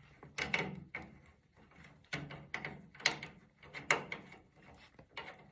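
Irregular small clicks and light scrapes of a screwdriver turning a screw back in by hand on a gas water heater, the screw being brought to hand tight.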